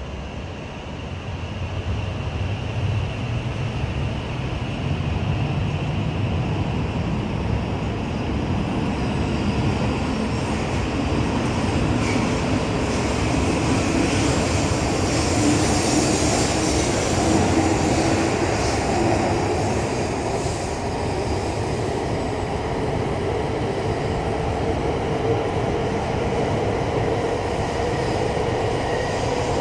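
Shinkansen train, a red E6 series coupled to a green E5 series set, pulling out of the platform. The rumble of the passing cars grows over the first few seconds and then stays steady, and a motor whine climbs in pitch as the train gathers speed.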